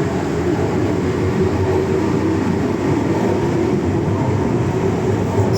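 MTR M-Train electric multiple unit running steadily through an underground line: a continuous low rumble of wheels on rail and traction noise with a faint steady hum.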